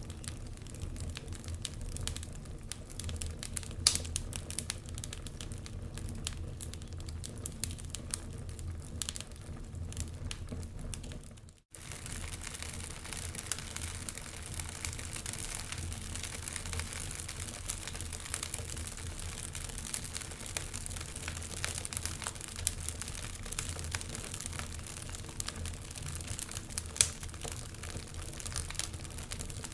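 Wood fire crackling in a fireplace: dense small snaps with a couple of louder pops, over a steady low rumble. The sound cuts out for an instant about twelve seconds in, then carries on.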